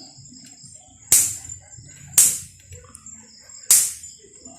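Three sharp, short noisy bursts about a second apart, each fading quickly, over a steady high-pitched insect drone.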